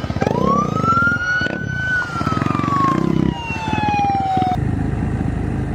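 A siren wails once, rising to a peak about two seconds in and then sliding down, over the fast pulsing of an engine running. The siren cuts off suddenly about four and a half seconds in, and the engine carries on.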